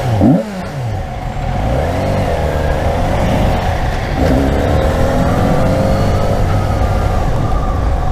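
Yamaha FZ6R 600cc inline-four motorcycle engine under way: a quick rev that rises and falls near the start, then steady running whose pitch drops and picks up again about four seconds in, like a gear change.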